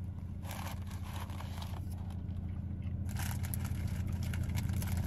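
Close-up chewing of a sub sandwich, crackly mouth noises in two bouts, over the steady low hum of the car.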